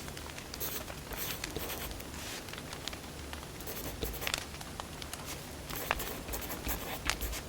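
Firewood burning in a fire, crackling with irregular sharp pops and snaps over a soft steady hiss.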